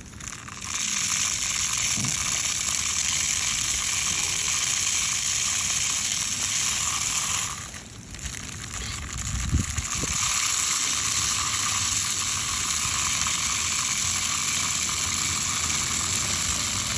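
Birdseed pouring in a steady hiss into a bird feeder, pausing briefly about eight seconds in before pouring on.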